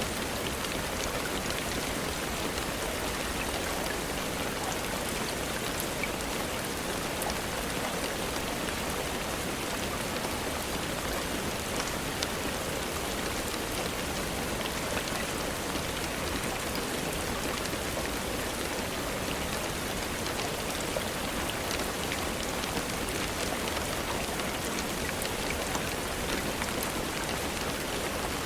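Steady rainfall, an even hiss with a few faint ticks scattered through it.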